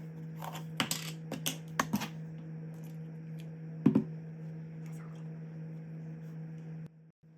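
Light clicks and taps of kitchen utensils during food preparation, then a louder knock about four seconds in, over a steady low hum that cuts off abruptly near the end.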